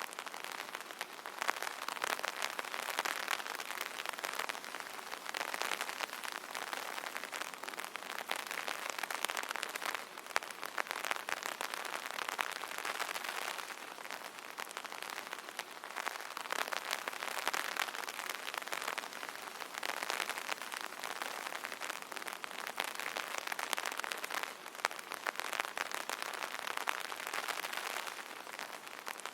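Rain pattering on an umbrella canopy: a dense, steady shower of drops that swells and eases every few seconds.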